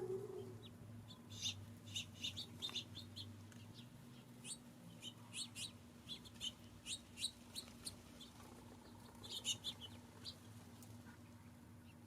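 Small songbirds chirping: many short, quick high chirps that come in several bursts.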